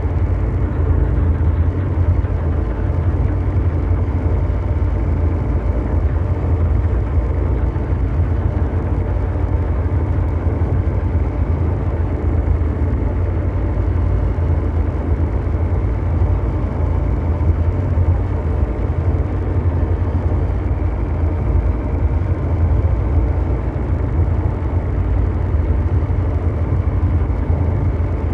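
Continuous ambient mechanical drone noise loop: a steady, deep, engine-like rumble with faint steady hum tones above it, unchanging throughout.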